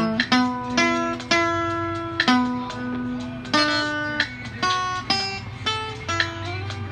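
Guitar music: plucked notes and chords in a steady run, each note struck and ringing away, with a few notes sliding up or down in pitch.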